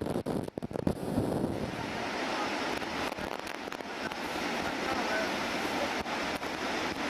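Steady rushing noise of a typhoon-swollen river in flood. In the first second or so, gusty wind buffets the microphone.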